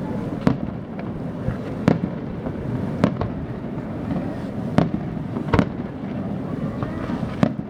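Fireworks display with shells bursting: about six sharp bangs at uneven intervals, over steady background noise between them.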